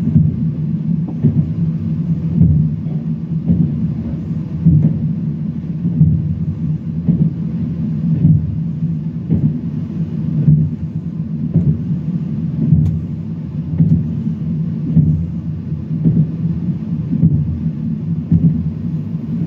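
Talgo passenger train running at speed, heard from inside the carriage: a steady low rumble of wheels on rails with frequent irregular thuds from the track.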